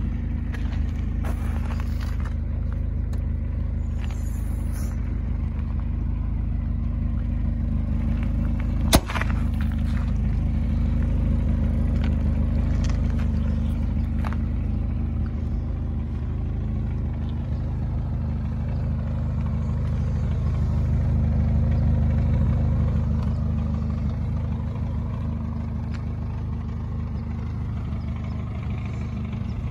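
1985 Toyota Tercel 4WD wagon's carbureted four-cylinder engine idling steadily, with one sharp pop about nine seconds in.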